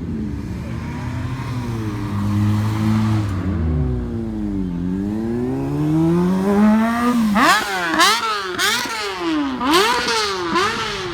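A car engine being revved, its pitch swelling and falling slowly at first, then blipped up and down quickly several times in the second half, where it is loudest.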